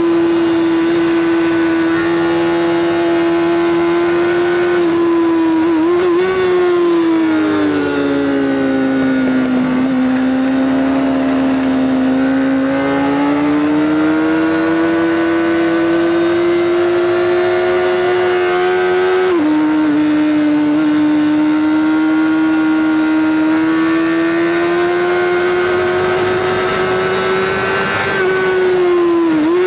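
Honda CBR600RR inline-four engine at high revs through a Leovince SBK titanium exhaust on a lap. The note holds high, sinks and climbs back about a quarter of the way in, steps down suddenly about two-thirds through as a gear change, then climbs again, with another short dip near the end.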